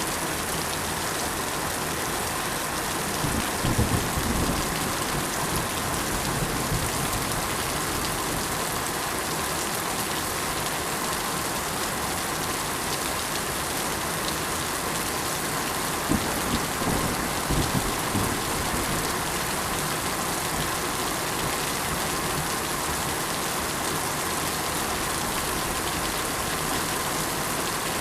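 Steady, heavy rain falling and pattering on surfaces, an even hiss throughout. Twice, a few seconds in and again a little past halfway, a short spell of low rumbling rises under the rain.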